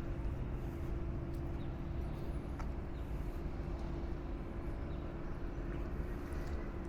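A steady, low mechanical hum holding one constant pitch, with a few faint ticks over it.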